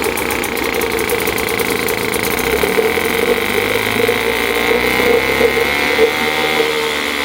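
British Seagull outboard motor, a single-cylinder two-stroke, running steadily and strongly, "like a scalded dog", with a steady high tone above the engine note.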